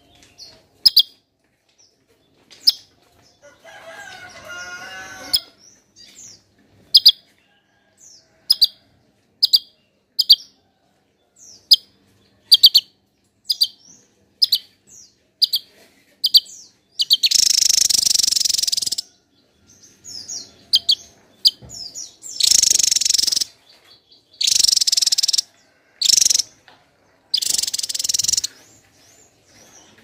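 Javan tesia calling: short, sharp high chips about once a second, then in the second half several loud, harsh bursts a second or two long.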